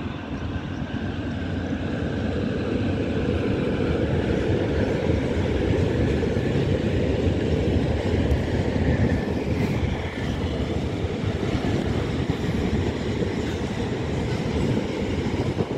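Freight train of covered wagons rolling past on the embankment: a steady low rumble of wheels and wagons that builds over the first couple of seconds and then holds.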